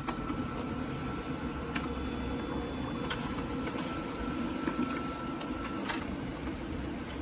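Brother DCP-7065 laser copier running a copy job with a new drum unit: a steady mechanical hum under a high whine that breaks off briefly about halfway, with a few clicks of the paper feed.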